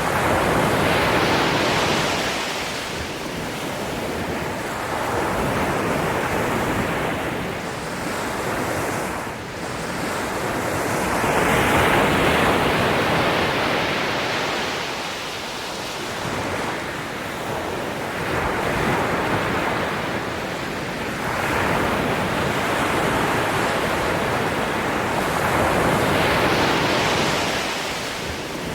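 Ocean surf: waves breaking and washing up the shore, a swell of rushing water every few seconds, with each wave rising and then fading.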